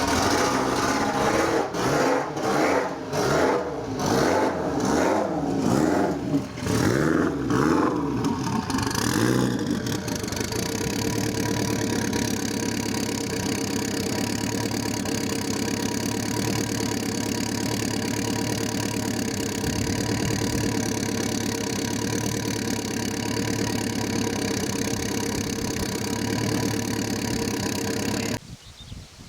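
Renault 5 Turbo 2's turbocharged four-cylinder engine being revved in a series of quick blips, each rising and falling, for about the first ten seconds. It then settles into a steady idle, and the sound cuts off sharply near the end.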